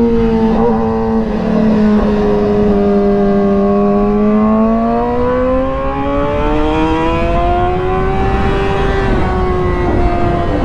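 2008 Honda CBR600RR's inline-four engine running hard on a track lap. Its note dips about a second in, holds low, then climbs steadily for several seconds as the bike drives out, and eases slightly near the end, over loud wind rush.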